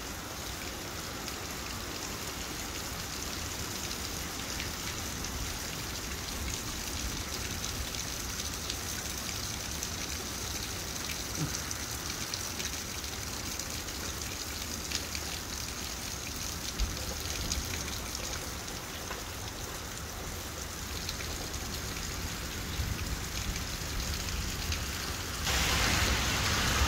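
Steady rain falling, an even hiss that turns noticeably louder about a second before the end.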